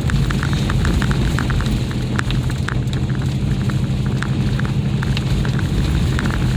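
Mercedes ML SUV driving on an ice-covered road, heard from inside the cabin: a steady low drone of engine and tyres, with irregular crackling and crunching as the tyres roll over ice.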